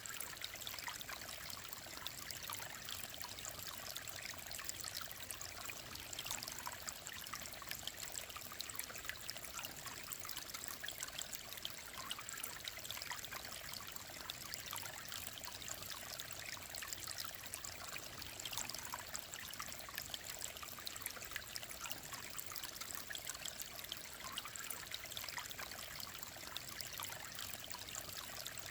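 Shallow mountain stream flowing and trickling over rocks, a steady babble of small splashes and gurgles.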